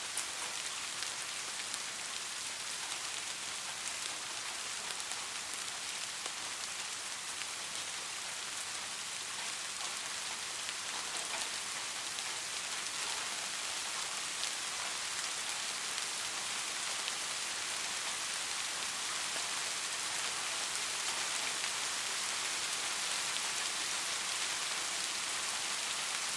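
Steady rain falling, an even hiss of many fine drops hitting a surface.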